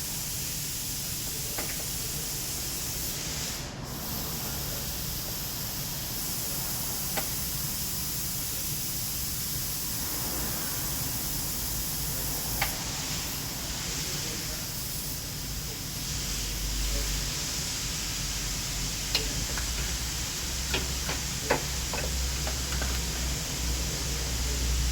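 Steady hissing noise over a low hum, with a few sharp clicks in the second half.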